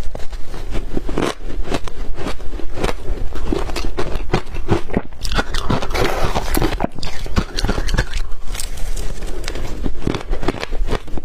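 Close-up crunching of ice being bitten and chewed: a quick run of sharp crunches, with a denser grinding stretch about six seconds in.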